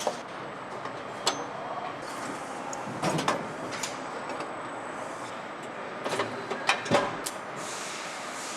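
Factory floor noise: a steady machinery hum with scattered sharp clicks and knocks of tools and parts, and a short hiss of air near the end.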